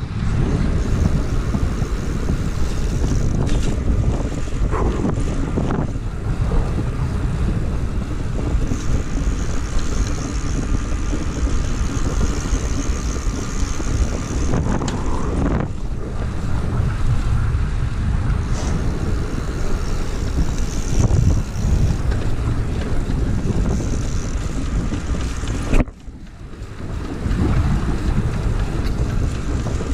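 Wind rushing and buffeting over the camera microphone as a bicycle moves at speed, a steady low rumbling noise. It drops away briefly near the end before picking up again.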